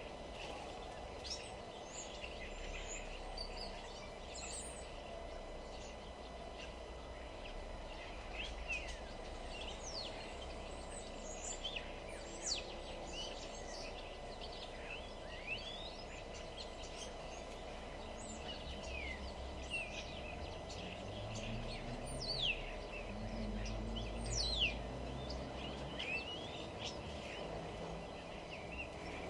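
Many small birds chirping and calling in quick, short notes and sweeps, overlapping throughout, over a steady low background rumble.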